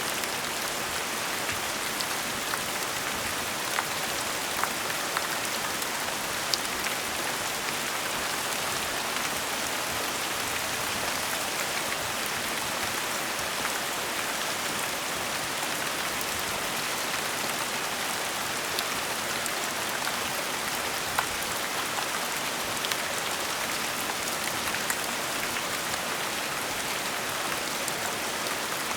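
Gentle steady rain falling, an even hiss with scattered individual drops ticking on surfaces.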